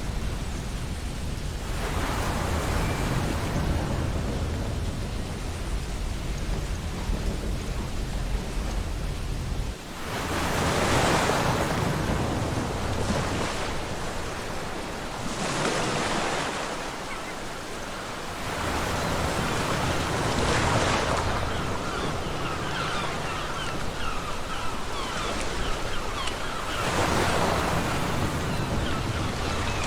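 Ocean surf on a beach: waves breaking and washing in one after another, swelling roughly every four to eight seconds, over a steady hiss of water. A low wind rumble underlies the first third and drops away about ten seconds in.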